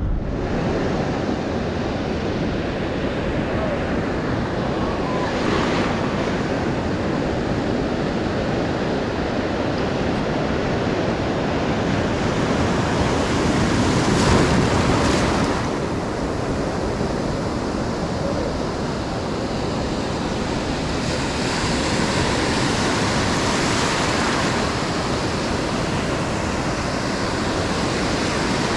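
Ocean surf breaking on a sandy beach: a steady wash of waves, swelling louder every several seconds as sets come in, the loudest about halfway through.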